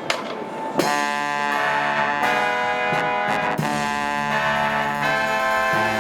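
Brass marching band coming in together about a second in and playing full sustained chords, after a last count-in click over wind noise on the microphone.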